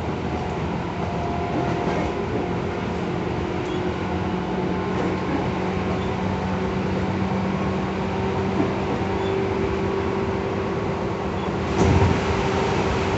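Tobu 10000 series electric train running: steady wheel-on-rail noise with a steady motor hum. A brief heavy thump comes about twelve seconds in.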